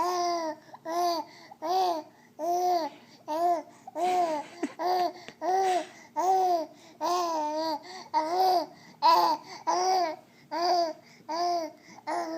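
A voice making a long run of short, near-identical calls, each rising then falling in pitch, about one every 0.8 seconds.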